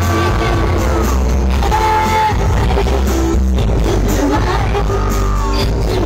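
Loud music with a sung vocal and heavy, steady bass, played over a high-powered sound system.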